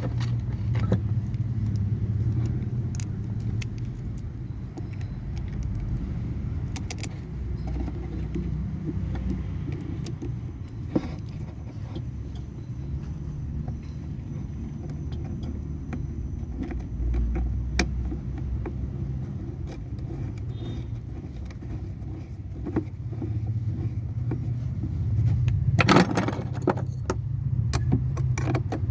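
Metal clinking and clattering of hand tools and battery terminal clamps as a vehicle battery is reconnected, with sharp clicks scattered through and a louder cluster of clanks near the end, over a steady low rumble.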